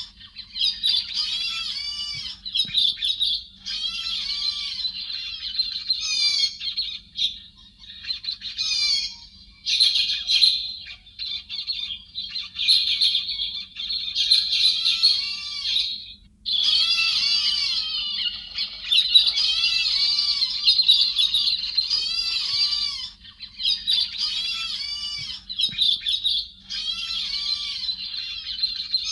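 Recorded calls of the héc xoan bird in an unbroken run of rapid, arching chirps and squawks, high-pitched, with brief lulls about eight and sixteen seconds in.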